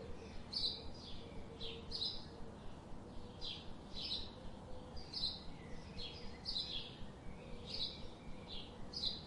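Small birds chirping: short, high, falling chirps repeated about one and a half times a second, faint.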